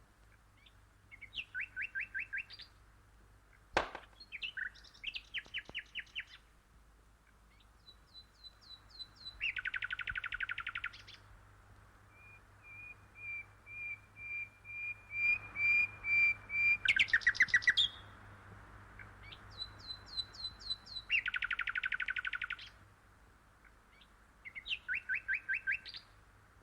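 Small birds chirping and singing in short phrases of rapid, repeated high trilling notes, with pauses between phrases. There is a single sharp click about four seconds in.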